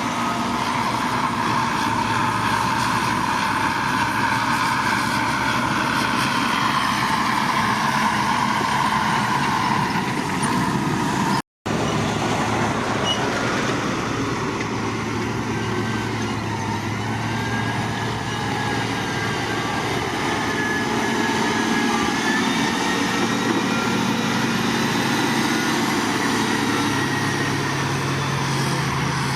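Heavy construction machinery engines running steadily at a road-building site, with a brief drop-out about eleven seconds in.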